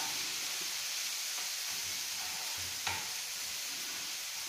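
Crushed green peas sizzling in hot oil in a frying pan, just added and being stirred with a spoon, with a steady frying hiss and soft scraping knocks. One sharp knock about three seconds in.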